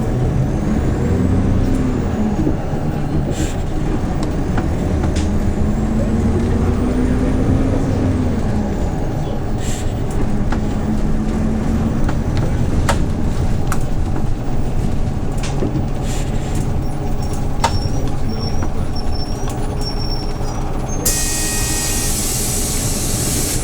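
Hyundai New Super Aero City CNG city bus engine running under way, its pitch rising and falling as the bus pulls and eases off, then holding steadier. About three seconds before the end, a loud hiss of compressed air starts.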